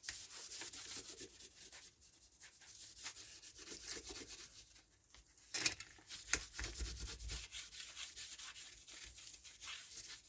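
A cloth scrubbing and wiping along a Stihl MS170 chainsaw guide bar, a steady scratchy rubbing made of quick irregular strokes, with a couple of sharper knocks about halfway through.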